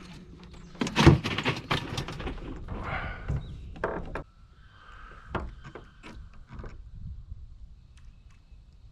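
A quick run of knocks and clatter, loudest about a second in, thinning after about four seconds to a few faint ticks.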